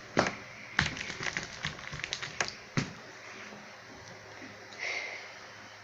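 Clear slime being worked by hand on a tabletop as it begins to activate: irregular wet clicks and squelches, most frequent in the first three seconds, then quieter.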